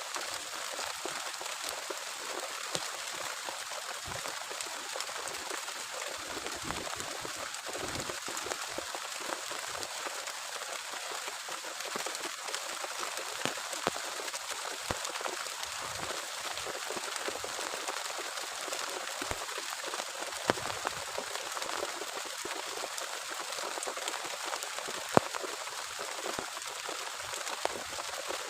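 Heavy rain falling steadily, a dense even hiss with many sharp drips of individual drops landing close by, two of them louder about twenty and twenty-five seconds in.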